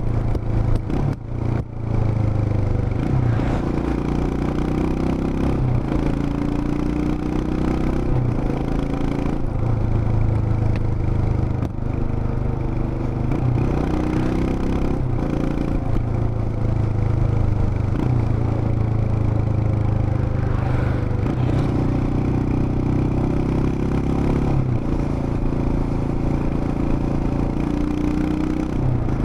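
Royal Enfield Himalayan BS6's 411 cc single-cylinder engine and exhaust running on the move, the engine note rising and falling in steps every few seconds as the throttle and gears change. A few sharp knocks and a brief drop in level come in the first two seconds.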